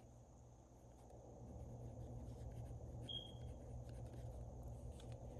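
Faint sounds of writing and handling paper over a steady low hum, with a brief high tone about three seconds in.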